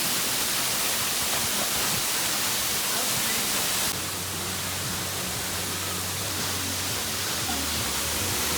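Large waterfall rushing: a loud, steady, even rush of falling water. It drops slightly in level about four seconds in.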